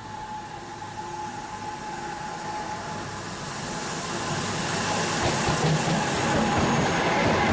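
Locomotive-hauled freight train approaching the platform at speed and passing close. The rush of wheels on rails grows steadily louder and is loudest near the end.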